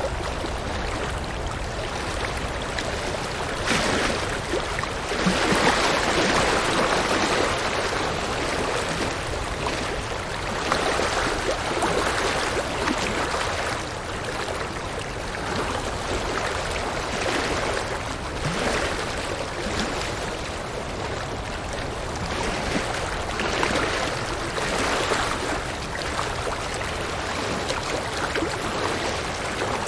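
A river running over rocks: steady rushing and splashing water, swelling a little every few seconds.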